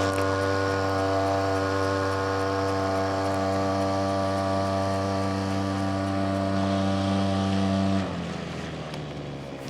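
Small brush-cutter engine driving a homemade outboard motor, running at steady high revs, then about eight seconds in dropping sharply to a lower, quieter running speed.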